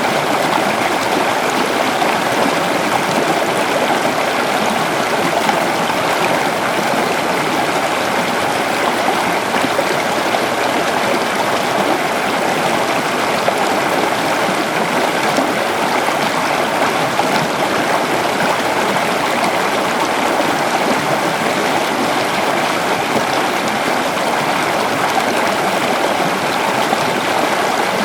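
A shallow river flowing over rocks: steady rushing and babbling water, unchanging throughout.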